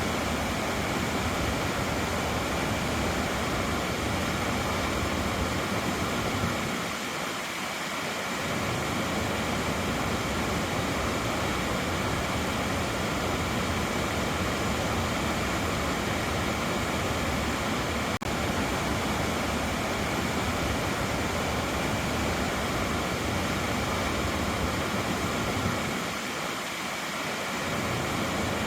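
Naena Falls, a waterfall, pouring with a steady rushing roar. The sound briefly softens and loses its depth twice, about a quarter of the way in and near the end.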